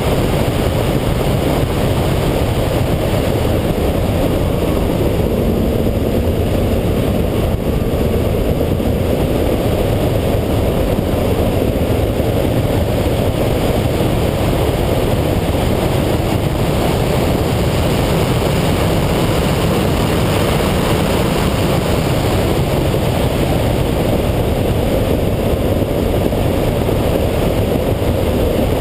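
The 7.0-litre LS7 V8 of a 2011 Corvette Z06 running at speed on a road course, mixed with steady wind and tyre noise.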